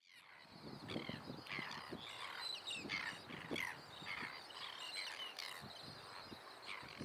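Seabirds calling: many short, harsh calls that overlap, several a second, over an uneven low rumble.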